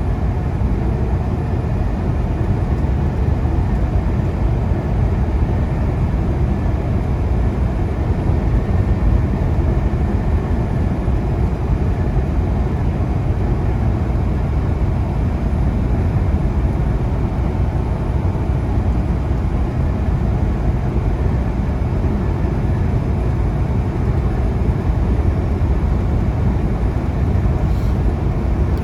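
Semi truck driving at road speed, heard from inside the cab: a steady low drone of engine and tyres on the road.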